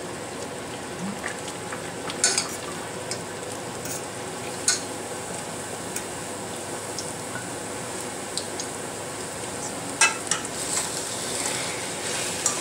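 Fleischkrapfen, meat-filled dough pastries, frying in hot fat with a steady sizzle. A few sharp knocks and clicks of a utensil on the pan, the loudest about two, five and ten seconds in.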